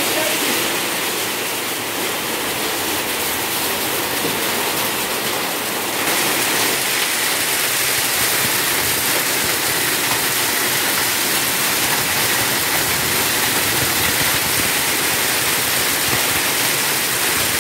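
Heavy rain pouring down, a steady loud hiss that gets louder about six seconds in.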